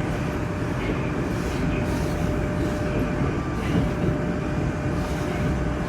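Moscow metro train running between stations, heard from inside the carriage: a steady rumble of wheels and running gear with a faint steady whine above it.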